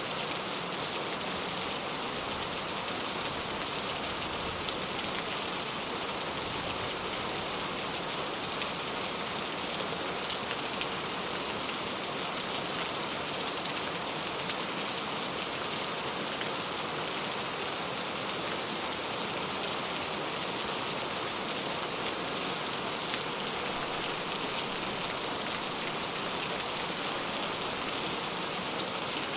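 Steady rain falling: an even hiss with scattered drops pattering, unchanging throughout.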